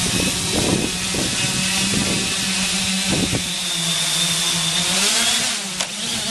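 Camera drone's motors and propellers running close by: a steady hum under a wide rushing hiss, the pitch wavering near the end.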